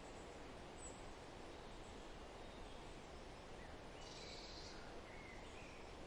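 Faint forest ambience: a steady soft hiss with a few short, quiet bird chirps, and a brief brighter burst of high chirping about four seconds in.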